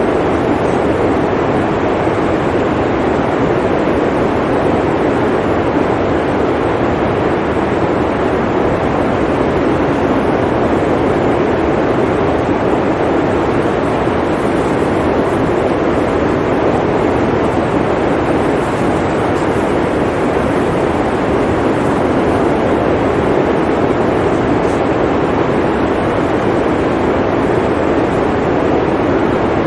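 Blizzard wind blowing steadily: an even, unbroken rush of noise with a deep, full body and no gusts or breaks.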